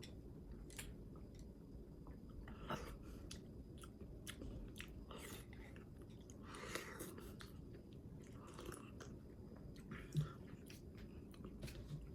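A person chewing and biting food, heard as faint scattered wet mouth clicks and soft crunches, with a slightly louder knock about 3 seconds in and again about 10 seconds in.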